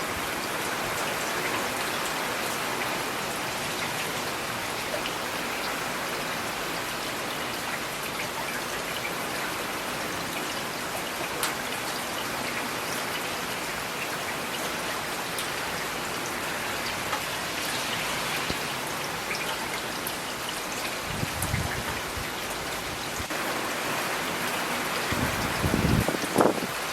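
Steady rain falling, with individual drops ticking now and then. Two short low rumbles come up near the end, the second one louder.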